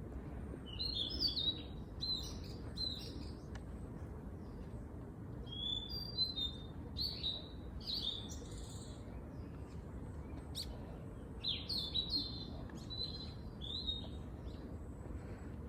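Songbirds chirping in quick, high phrases that come in three spells, over a steady low background rumble.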